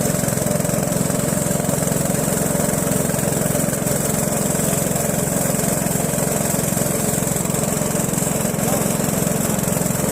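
Boat motor running steadily at a constant speed.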